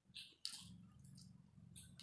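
Faint eating sounds: a few wet mouth smacks and clicks while chewing food, with a low hum underneath.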